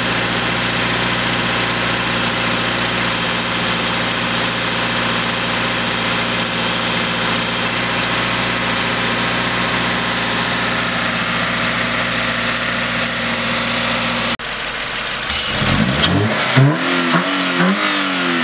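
Subaru Impreza 2.0i's FB20 2.0-litre flat-four, breathing through an Injen cold air intake, idling steadily. After a sudden break about 14 seconds in, it is revved in several quick blips, each one rising and falling in pitch.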